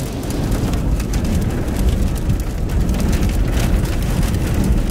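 Rain pelting a vehicle's roof and windshield in a thunderstorm, heard from inside the cabin as a dense patter of drops over a steady low rumble.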